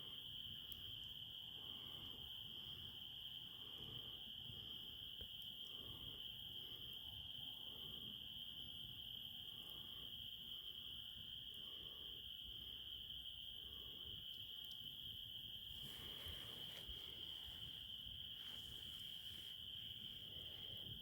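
Crickets in a steady, unbroken chorus, one even high-pitched trill, with a few faint scattered clicks.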